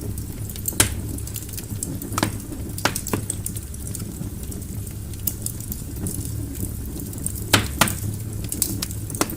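Wood logs burning in a fireplace, crackling with scattered small ticks and irregular sharp pops over a steady low rumble. The loudest pops come about a second in and as a quick pair late on.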